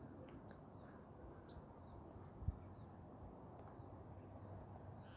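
Faint bird chirps: short, high, downward-sliding notes repeating every few tenths of a second. A soft low thump about two and a half seconds in.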